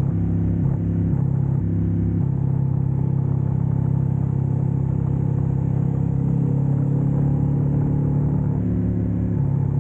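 Ducati motorcycle engines running at low revs while rolling slowly, a steady low rumble with no revving.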